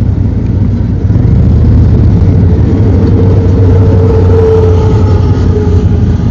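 Motorcycle running at road speed, with heavy wind rumble on the microphone. About halfway through, an engine note rises in over the rumble and holds for a couple of seconds.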